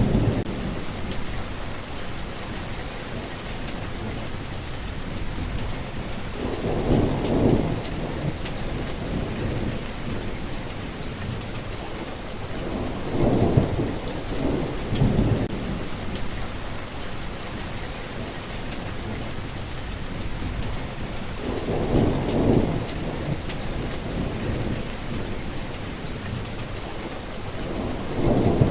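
Steady rain hissing on surfaces, with low rolls of thunder rumbling up every seven or eight seconds, about four times, each swelling and fading over a second or two.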